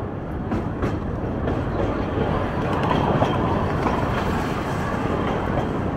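Small passenger train of the Ikawa Line running along the track, heard at an open window: a steady rumble of wheels on rail, with a few short clicks in the first second or so.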